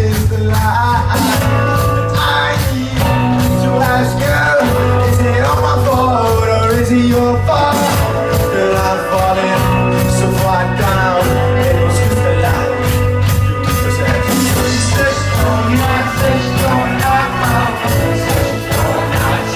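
Rock band playing live with a steady drum beat, bass, guitar and singing.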